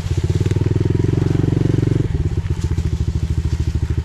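Pit bike's single-cylinder engine running at low revs, then dropping to a slower, more uneven beat about two seconds in.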